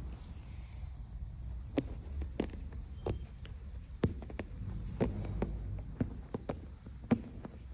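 A low, steady rumble with irregular sharp taps and clicks over it, a dozen or more scattered through.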